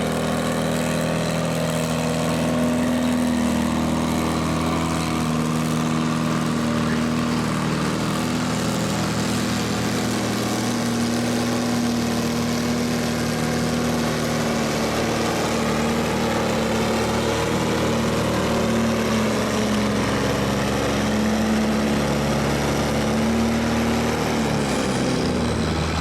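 Farm stock pulling tractor's engine running hard at a steady, high pitch under load, as in a run down the track with the sled.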